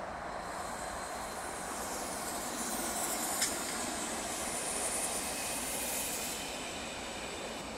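A train passing on the line: a rising and then easing rush of wheels on rails with a high hiss, and one sharp click about three and a half seconds in.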